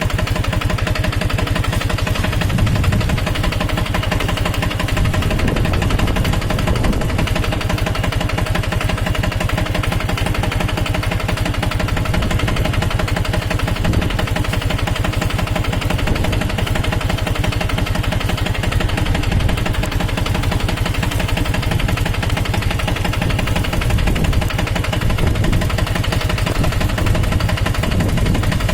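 Captain 250 DI mini tractor's direct-injection diesel engine running steadily while pulling a kunte blade harrow through soil.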